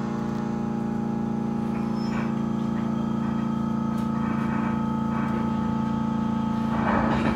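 Train pulling away from a station, heard from inside the car: a steady engine drone holding one pitch, with a short rush of rolling noise about seven seconds in.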